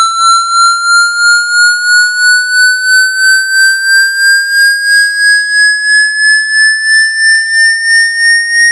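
Electronic water-eject tone: a single high tone gliding slowly upward in pitch while pulsing in loudness about two to three times a second. It is a sweep meant to vibrate water droplets out of a phone's charging port.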